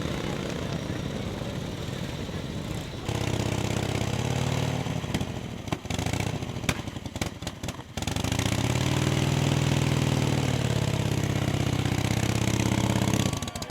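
Vintage motorcycle engine running, with sudden changes in the sound. A steady engine hum starts abruptly about three seconds in, breaks up into sharp clicks and dropouts in the middle, then runs steadily again before cutting off near the end.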